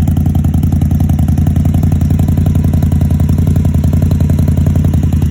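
Indian Scout Sixty's V-twin engine idling steadily through Vance & Hines Grenade mufflers, shortly after a cold start, with an even, rapid exhaust pulse.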